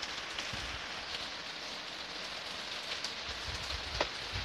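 Heavy tropical rain falling steadily on a garden: an even hiss, with single drops ticking sharply close by now and then, the strongest about four seconds in.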